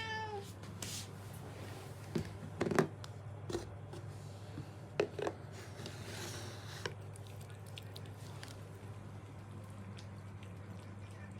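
Wet cat food being handled and served: soft squishing and scraping with a few light clicks, over a steady low hum. A cat's meow trails off right at the start.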